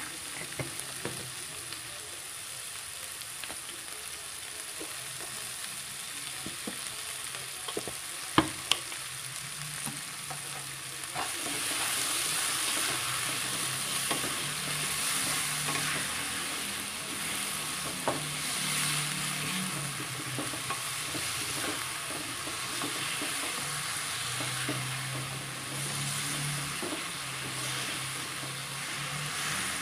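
Bell pepper strips sizzling as they fry in oil in a nonstick pan, stirred and scraped with a spatula. Two sharp knocks come about eight seconds in, and the sizzle grows louder from about eleven seconds.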